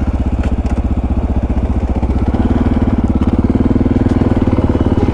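Dual-sport motorcycle engine running, with a steady, even pulse of firing strokes.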